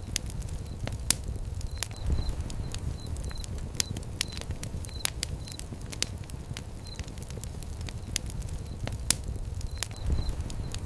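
Fire crackling: frequent irregular sharp pops and snaps over a low, steady rumble of flame.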